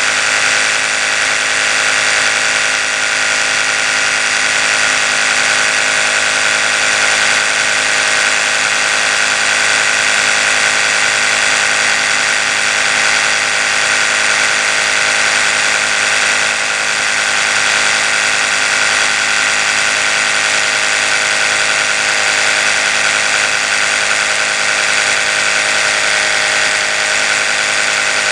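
Oral-B electric toothbrush motor running steadily: a continuous high-pitched buzzing whir of the spinning brush head, with no change in speed.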